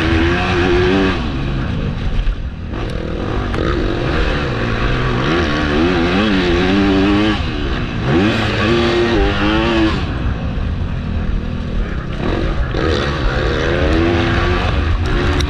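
MX2 motocross bike engine revving up and down again and again as the throttle is opened and shut and the rider shifts through the gears, over a steady rush of low noise.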